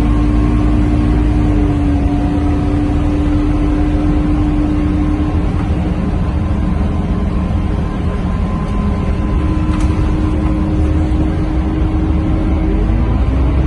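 Scania K230UB bus's five-cylinder diesel engine and road rumble heard from inside the cabin while riding: a steady low drone with a humming tone that fades out about five seconds in, returns a few seconds later and rises in pitch near the end.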